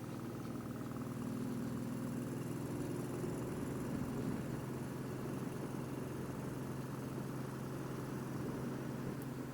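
Motorcycle engine running at a steady speed under way, a low even drone with no change in pitch.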